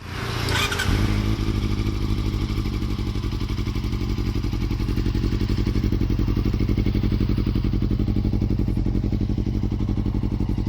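Honda CBR400RR NC23 inline-four running through a Yoshimura carbon aftermarket exhaust, holding a steady idle with an even, rapid pulsing beat. A short burst of noise comes about half a second in.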